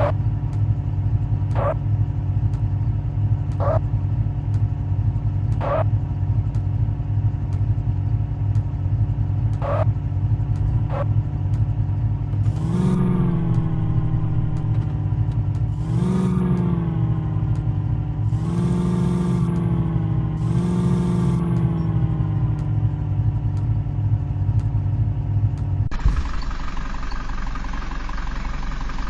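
Tractor diesel engine running steadily, with a few short ticks over it, then revved four times in quick succession, each rev rising and settling back. A few seconds before the end the sound changes abruptly to a different take of the engine.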